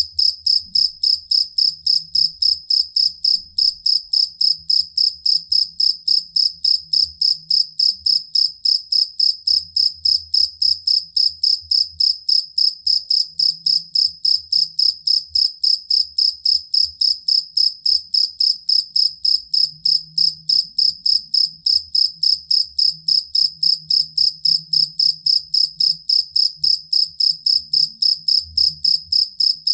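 Field cricket (jangkrik kalung) singing a steady, evenly paced chirp, about three chirps a second, high-pitched and unbroken throughout.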